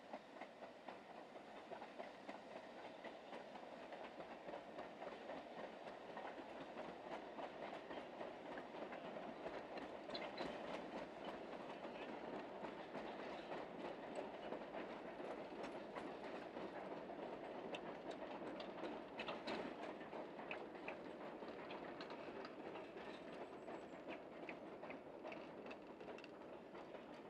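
A narrow-gauge Ffestiniog Railway train passing along the hillside high above, faint and steady, with its wheels clicking over the rail joints. It grows a little louder toward the middle, then fades.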